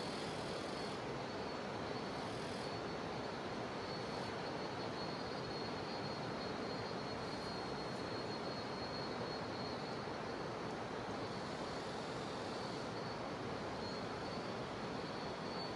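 A jungle river rushing steadily, with cicadas droning in one thin, high, continuous band above the water.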